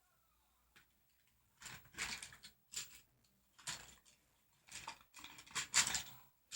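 Felt-tip marker scratching across paper in a series of short back-and-forth colouring strokes, starting about a second and a half in.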